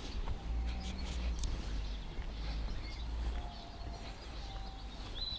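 Outdoor garden ambience: birds chirping over a low, steady background rumble, with a clearer bird call starting near the end.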